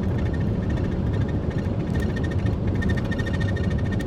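Steady road and engine rumble from a moving truck, with a faint, high, rapidly repeating squeak that comes and goes and is clearest in the second half. The squeak is a nagging rattle-squeak in the truck and camper rig.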